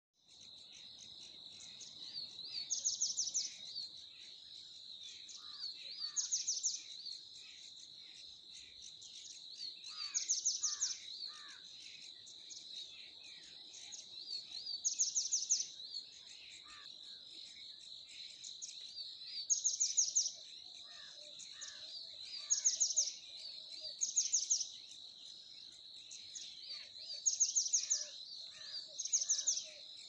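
Birds singing in a morning chorus: a loud, short, fast trill repeats about every three to four seconds, with lower falling whistles between, over a steady high-pitched insect drone.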